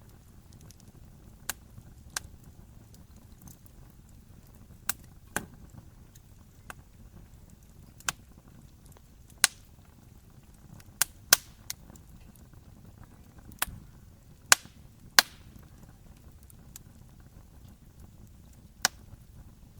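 Wood fire crackling: irregular sharp pops and snaps, more than a dozen, over a low steady rumble of burning.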